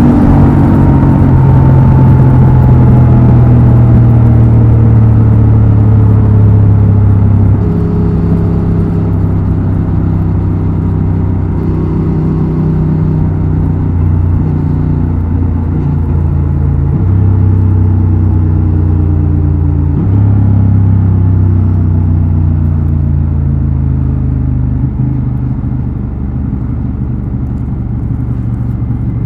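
Honda Transalp XL750's 755 cc parallel-twin engine and exhaust under way. The engine note falls steadily as the bike slows off the throttle, then jumps suddenly about 17 and 20 seconds in as gears change.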